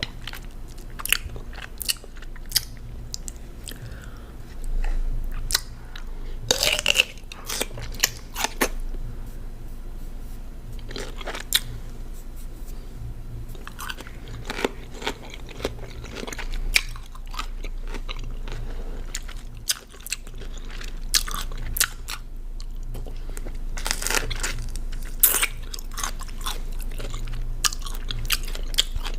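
Close-miked biting and chewing of crunchy raw cucumber: irregular wet crunches and mouth clicks, with louder bites at several points.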